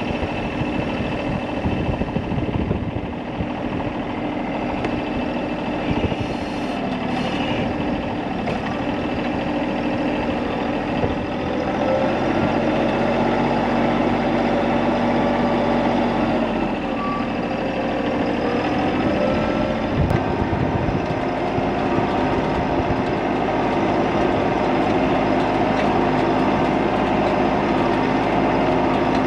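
An engine running steadily, its pitch shifting a little about twelve seconds in and again about twenty seconds in.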